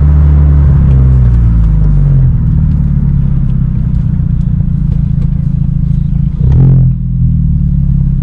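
The turbocharged four-cylinder of a 2014 Hyundai Genesis Coupe 2.0T, running through a Tomei titanium single exhaust while driving: a loud, low, steady exhaust drone. The pitch drops a little about two seconds in, and a short louder burst comes near the end.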